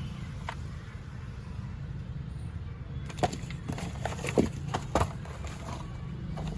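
A steady low mechanical hum, with a few sharp knocks in the middle.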